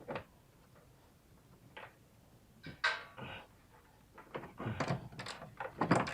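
Metal parts and hand tools knocking and clanking as a bolted-in bar is worked loose in the van's engine bay. The knocks come one at a time with a brief scrape near the middle, then a busier run of knocks and rattles in the last couple of seconds.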